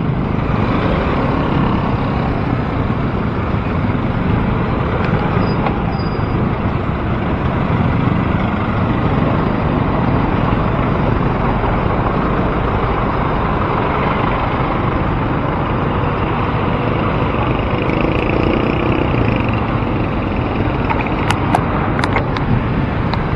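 Heavy road traffic: a steady noise of car, truck and motorcycle engines around a bicycle, with a few short sharp clicks near the end.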